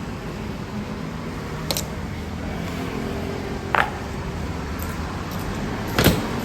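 Three sharp clacks of honor guards' drill, about two seconds apart and the last one loudest, over a steady low outdoor hum.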